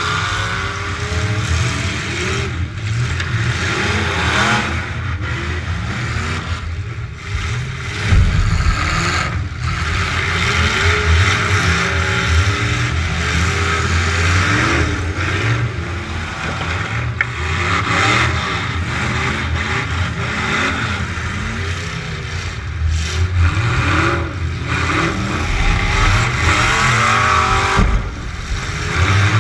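Demolition derby truck engine revving hard and dropping back again and again, loud and close, with a few sharp knocks in between.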